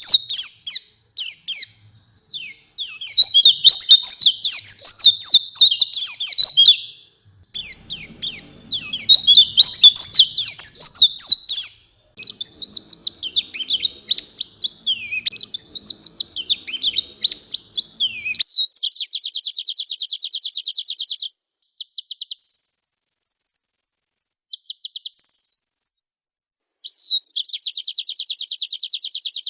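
White-eye (pleci) singing loudly: bouts of rapid, twittering high-pitched warbles, then a different run of warbled phrases. About two-thirds of the way through the song turns to fast, evenly repeated trills, with two stretches of a steady, very high buzz near the end.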